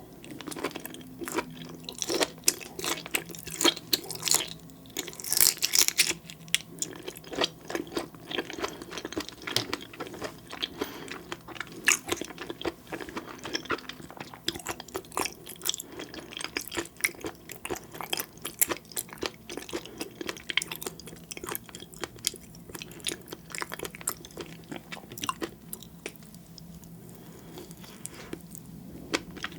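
Close-miked chewing: a dense, irregular run of small crunchy clicks and wet mouth sounds, busiest in the first few seconds.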